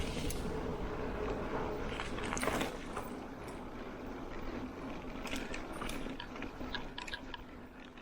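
Bicycle tyres crunching over a rough track, with scattered clicks and crackles from stones and debris under the wheels. A low rumble fades out about two and a half seconds in.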